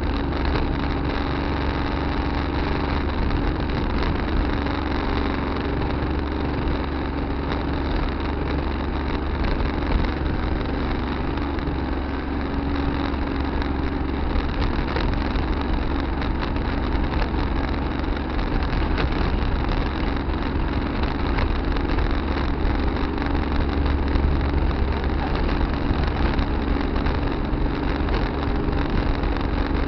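Farm tractor engine running steadily, heard from a dash camera inside the cab.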